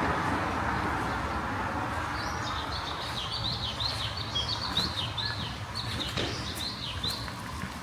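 A small bird singing a rapid run of short, high chirps, starting about two seconds in, over the tail of fading road-traffic noise.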